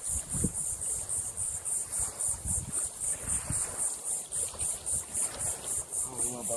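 Cicadas calling in a high, steady chorus that pulses about four or five times a second, with the breeze gusting on the microphone.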